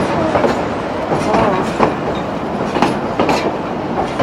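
Durango & Silverton narrow-gauge passenger train rolling along, a steady rumble with wheels clacking over the rail joints.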